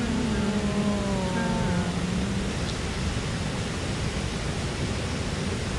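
Mountain stream rushing steadily. A person's voice is heard briefly in the first two seconds or so.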